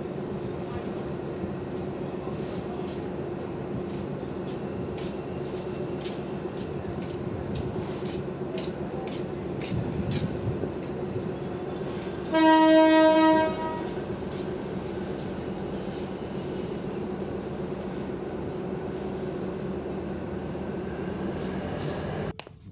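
A State Railway of Thailand diesel train standing at the platform, its engine running with a steady hum, with scattered clicks and knocks. About halfway through, the locomotive sounds one horn blast lasting just over a second. The sound cuts off abruptly near the end.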